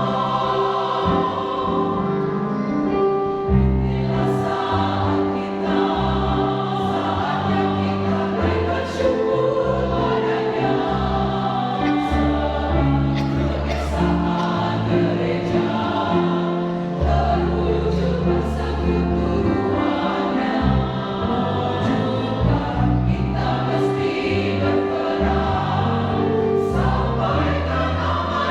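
Church choir singing a praise hymn in parts, with held low notes changing in blocks beneath the voices.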